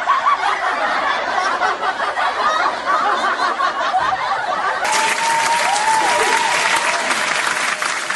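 Sound-effect clip of a crowd cheering and applauding; about five seconds in it cuts to a second, brighter burst of applause with a wavering whistle over it.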